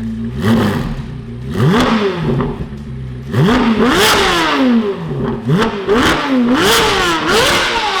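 C8 Corvette Z06's 5.5-litre flat-plane-crank V8 revved through a full titanium Valvetronic valved exhaust: about six quick throttle blips, each rising sharply in pitch and falling back toward idle.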